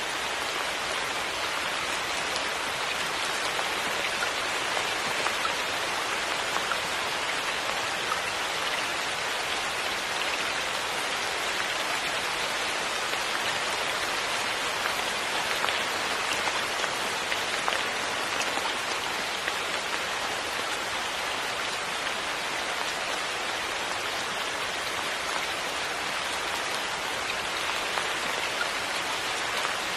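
Steady rain falling, a dense even patter of drops on a surface with small individual drop hits standing out here and there.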